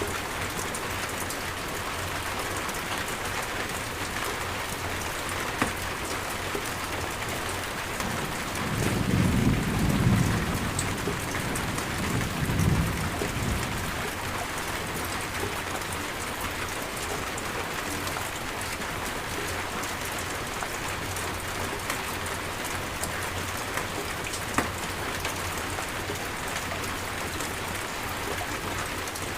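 Steady rain falling in a rainstorm, an even hiss with the odd sharper drop. About nine seconds in, a low roll of thunder rumbles for a few seconds, swelling twice before it fades back under the rain.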